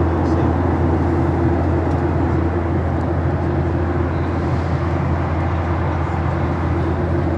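Steady drone of an airliner's jet engines heard inside the cabin after landing, a constant low hum with broad rushing noise over it.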